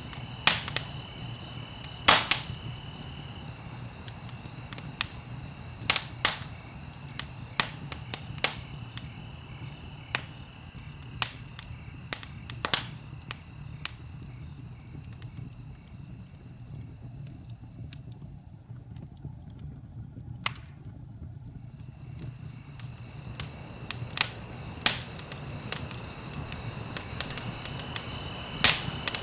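Wood fire crackling, with irregular sharp pops and snaps over the low, steady rumble of the flames. A steady high, insect-like tone runs alongside, fades out in the middle and returns near the end.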